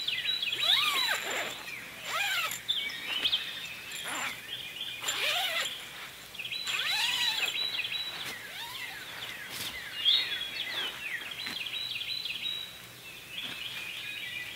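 Woodland birds chirping and calling, with many short calls that rise and fall in pitch, coming every second or so. A few sharp clicks sound among them.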